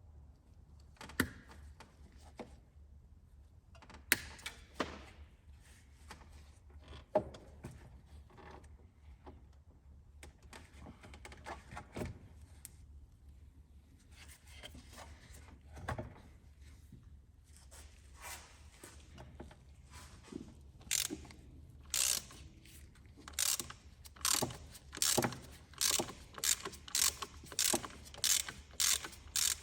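Ratchet wrench working bolts on an engine: a few scattered metallic clicks and knocks, then from about two-thirds through a steady run of short ratcheting bursts, about one and a half a second, one for each back-swing of the handle.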